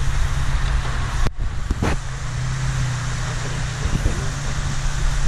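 Ford Maverick 4x4's engine running at low revs with a steady low hum, over a constant rushing noise of water flowing across the ford.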